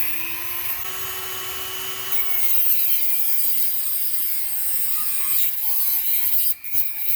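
Small Dremel rotary tool with a cutting wheel slotting a rusted, seized sway bar link nut so it can be broken loose. The high motor whine sags in pitch as the wheel bites into the metal, stops briefly near the end, then starts again.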